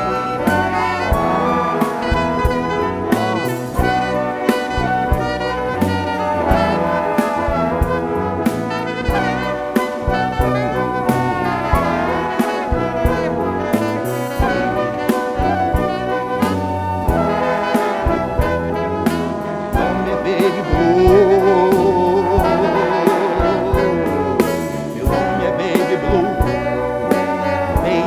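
Live band music with brass and a steady drum beat, horns holding and sliding between long notes; a louder, wavering brass line enters about two-thirds of the way through.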